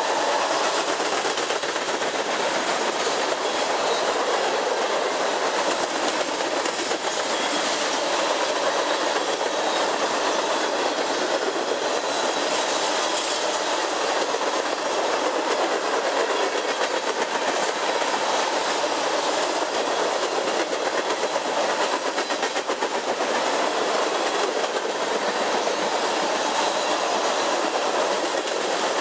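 Tank cars of a Norfolk Southern ethanol freight train rolling steadily past, the continuous noise of steel wheels running on the rails.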